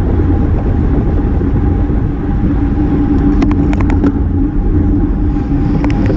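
Wind rushing over a bike-mounted action camera together with road-bike tyre noise on the road: a steady low rumble with a constant hum through it. A few light clicks come about halfway through and again near the end.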